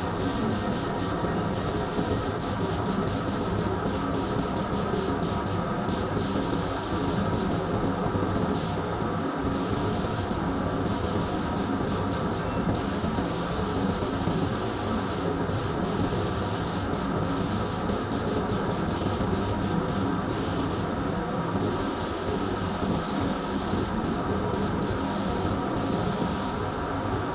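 Sandblaster working on moped frame parts: a steady hiss of air and grit over a continuous machine drone. The hiss cuts out briefly several times and comes back.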